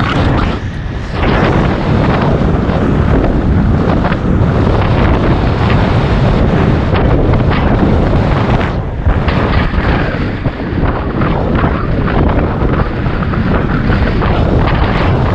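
Wind buffeting the microphone of a camera carried on a moving bicycle: a loud, continuous, low rumble that flutters in level.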